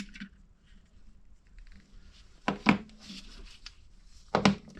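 Small hard parts of a small-engine recoil pull-starter being handled and knocked together, with light rubbing and two sharp clacks about two and a half seconds and four and a half seconds in.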